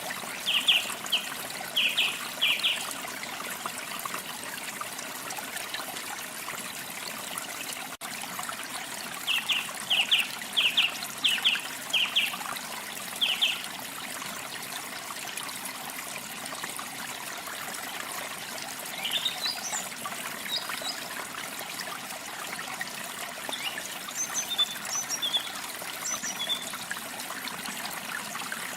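Trickling stream water running steadily, with small songbirds chirping over it: runs of short repeated chirps near the start and again about nine seconds in, then higher, thinner twittering from about nineteen seconds in.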